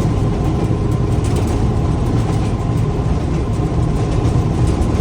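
Locomotive running with a steady, heavy low rumble and a faint steady whine above it.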